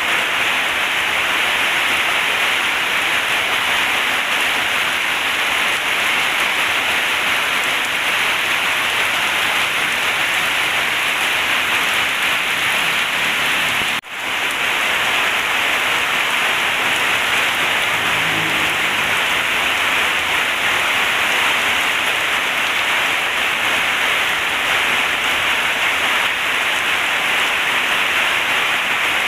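Heavy rain falling steadily, an even hiss without a break except for a split-second cut-out about halfway through.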